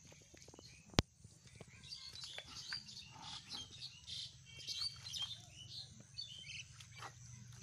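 Small birds chirping, a quick run of short high calls through the middle. One sharp click about a second in stands out as the loudest sound.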